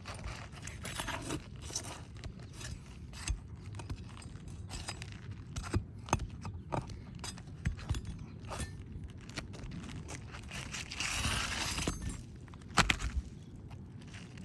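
Objects being handled: a string of irregular clicks and knocks, a scraping rustle from about ten and a half to twelve seconds in, and a sharp double knock just before the end.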